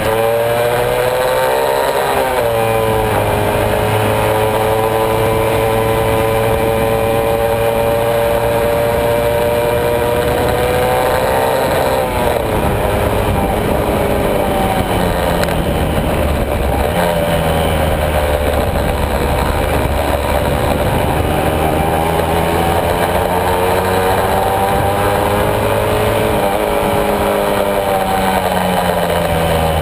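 Honda MB100's small single-cylinder two-stroke engine running on the move. Its pitch rises and falls with the throttle, dropping sharply a few times.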